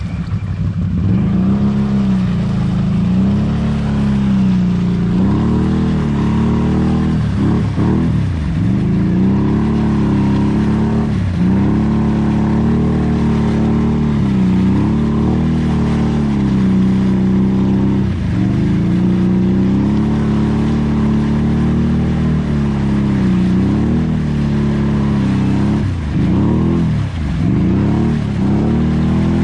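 ATV engine running hard, its pitch swaying up and down and dipping sharply then climbing back every few seconds, as in repeated throttle lifts and blips.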